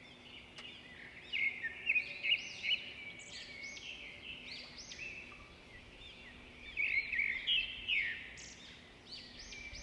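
Many small birds chirping at once in a dense, overlapping chatter of quick high chirps, louder in two spells near the start and again about seven seconds in.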